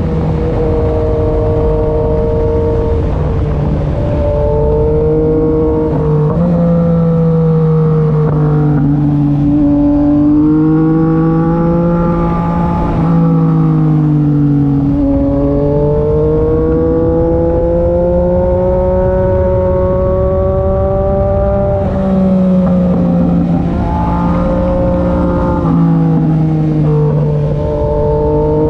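Yamaha MT-09 SP's inline three-cylinder engine through an SC-Project exhaust while riding. The engine pitch climbs slowly under acceleration and drops sharply at each gear change, several times over.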